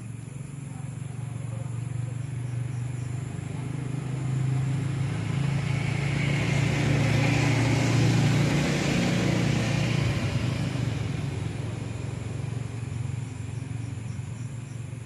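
A motor vehicle passing by on a road, its engine and tyre noise growing louder to a peak about halfway through, then fading away.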